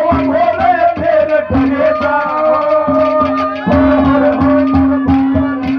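Instrumental Haryanvi ragni folk music played live: long held melody notes over a fast, steady hand-drum beat of about four strokes a second.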